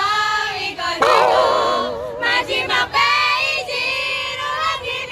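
Pop singing over music, with a wavering held note about a second in.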